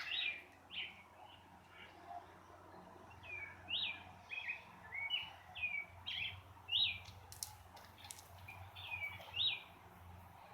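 Songbirds chirping: many short, repeated calls, several a second, with a few faint clicks about seven seconds in.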